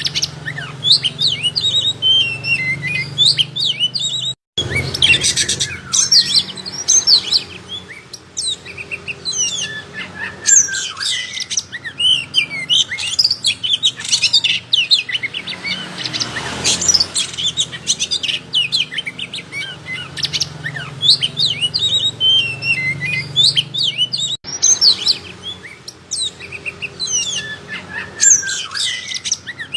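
Oriental magpie-robin (kacer) in full song: a dense, unbroken stream of rapid, varied whistles, chirps and trills over a faint low hum, cut off for an instant twice.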